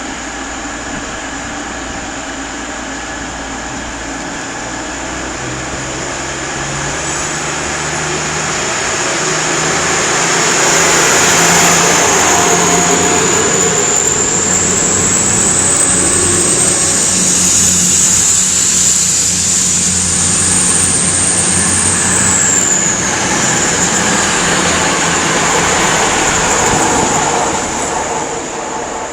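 Diesel train running, growing louder from about six seconds in, with a steady low engine hum and a high whine that climbs in pitch and then drops away, before the sound fades near the end.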